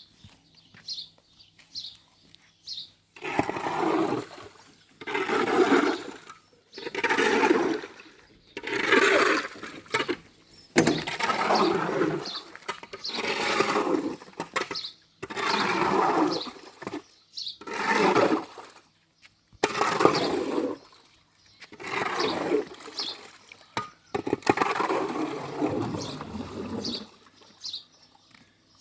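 Water splashing in a dozen or so loud strokes, one about every two seconds, starting a few seconds in and stopping near the end.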